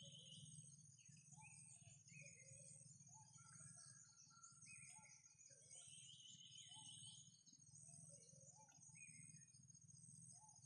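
Faint outdoor ambience: insects trill steadily and high, scattered bird calls and chirps come and go, and a low hum runs underneath.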